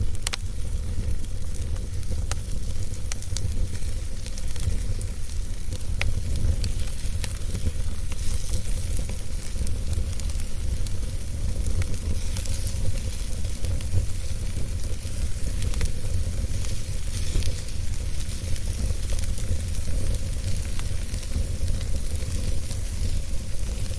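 Wood fire burning in a fireplace, crackling with scattered sharp pops over a steady hiss and a low rumble.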